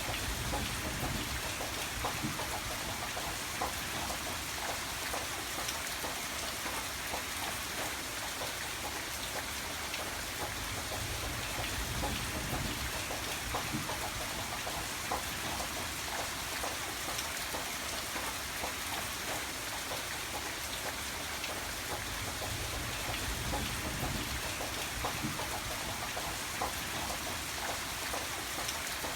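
Steady rain falling on a surface: many separate drop impacts over an even hiss, with a low rumble underneath that swells now and then.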